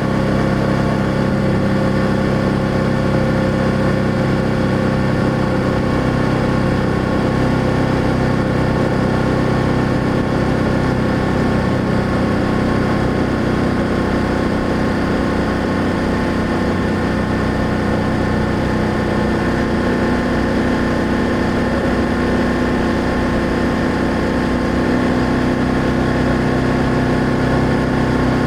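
BMW F800GS parallel-twin engine and exhaust running steadily while riding, its pitch creeping up a little over the second half.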